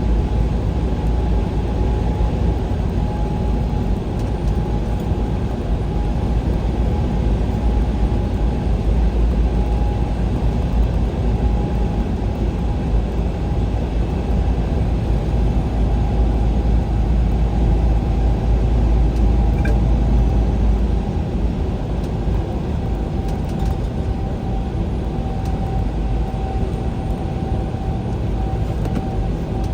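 A vehicle driving steadily at road speed: continuous engine and tyre noise with a deep rumble and a faint steady whine.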